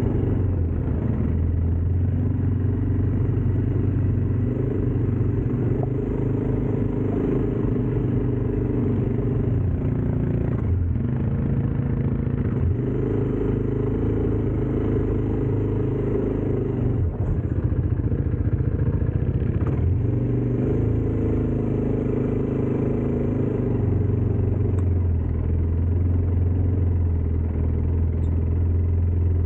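ATV engine running steadily, its pitch shifting up and down several times as the revs change.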